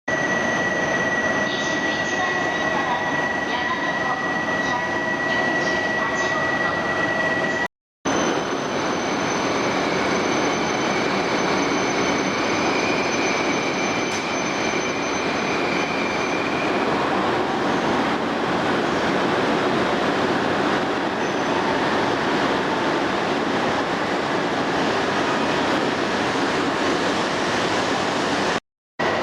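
E2 series Shinkansen train running through an underground station platform: a steady rushing rumble with a high electric whine. Two brief breaks cut the sound.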